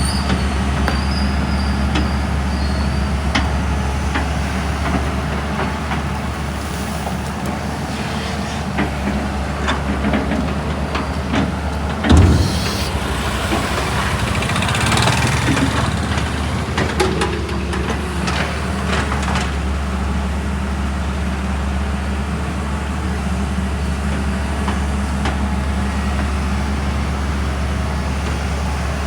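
Heavy diesel machinery running steadily with a low engine drone as sand is loaded into a truck. A loud thud comes about twelve seconds in, with clattering over the few seconds after it.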